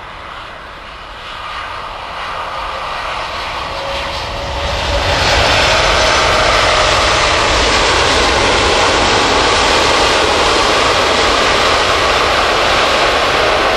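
Airbus A330 jet airliner landing: jet engine noise with a whine falling in pitch, swelling to loud about five seconds in and staying loud and steady.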